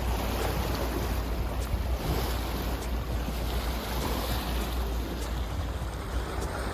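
Wind buffeting the microphone over a steady rushing noise with a low rumble.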